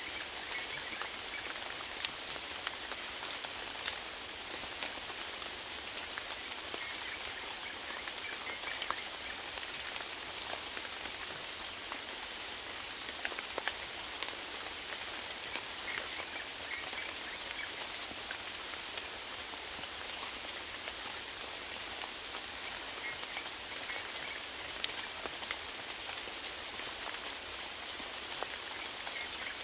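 Steady rainfall, an even hiss with scattered individual drops tapping sharply. A few times, faint short bursts of chirping calls rise through the rain.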